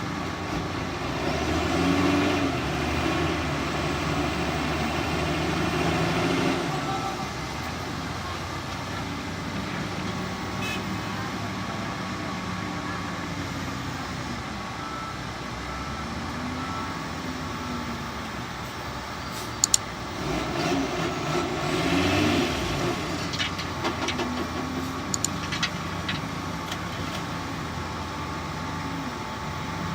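Heavy diesel engines running steadily, revving up twice with the pitch rising and falling, and a few sharp clicks in between.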